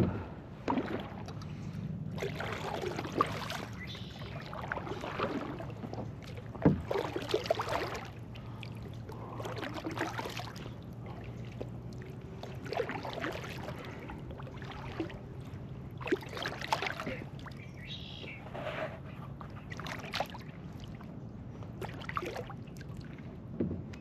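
Kayak paddle strokes in calm water: the blade dips and pulls through the surface every two to three seconds, with splashing and dripping.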